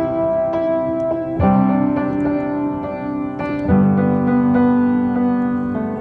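Piano music: slow sustained chords, with a new chord struck about a second and a half in and again near four seconds.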